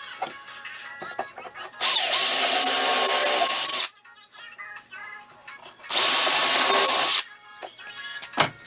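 A power tool runs twice in short bursts, about two seconds and then just over a second, over background music.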